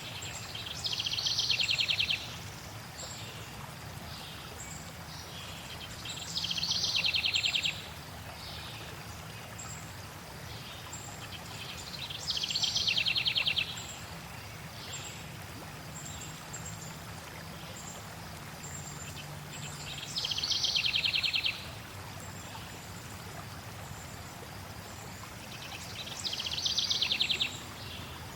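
Steady flowing water with a songbird singing a short, rapid trilled phrase about every six seconds, five times, and faint high chirps in between.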